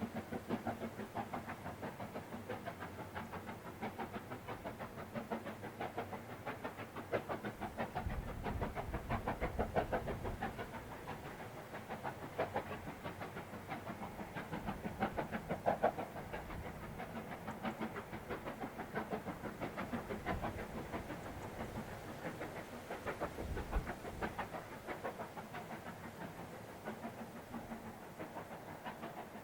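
Steam locomotive running, with a fast, even beat throughout and a deeper rumble swelling in about a third of the way through and again later.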